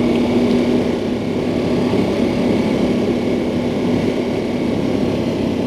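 Ducati Multistrada 1200 Enduro's V-twin engine running steadily while the motorcycle cruises, with no change in engine pitch.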